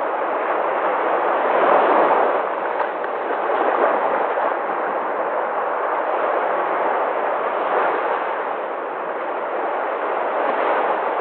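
Sea waves breaking and washing in, a steady rushing roar that swells gently about two seconds in and again near the end.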